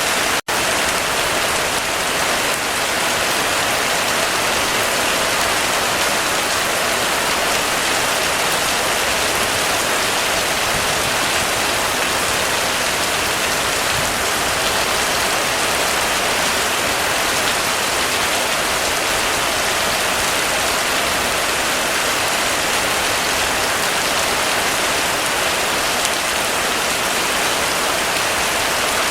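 Heavy rain falling steadily in an even, dense hiss, with a momentary dropout of the sound about half a second in.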